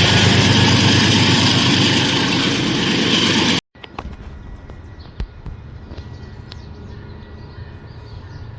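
Loud, steady rushing rumble of a train passing close by, which cuts off abruptly about three and a half seconds in. A much quieter background with a few faint sharp clicks follows.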